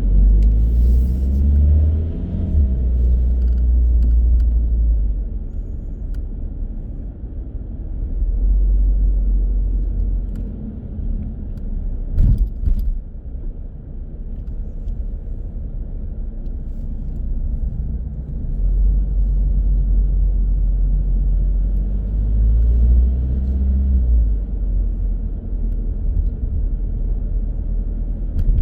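Car driving along a road: a low, steady rumble of engine and tyres that swells and eases, with a single sharp knock about twelve seconds in.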